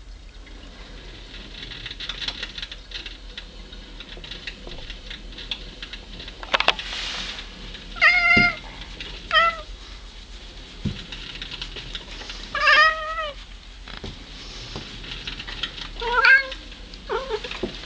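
Domestic cat meowing at birds: four short, high calls a few seconds apart, then a couple of shorter ones near the end.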